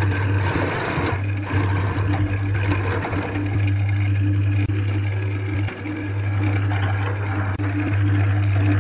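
Wood lathe running with a steady motor hum, with bursts of rougher noise in the first few seconds.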